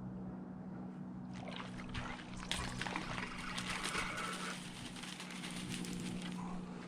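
Water splashing and sloshing at the surface for about three seconds, starting a second and a half in, over a steady low hum.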